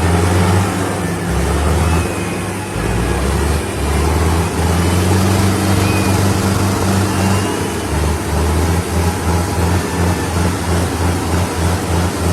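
Sonalika tractor diesel engines running hard under heavy load, as in a tractor tug-of-war pull. A loud, low engine drone that wavers, then pulses about twice a second over the last few seconds.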